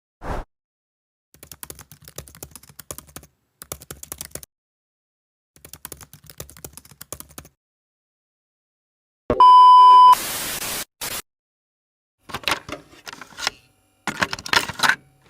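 Keyboard typing in short bursts of rapid clicks. About nine seconds in, a loud steady beep, cut short by a brief burst of static hiss.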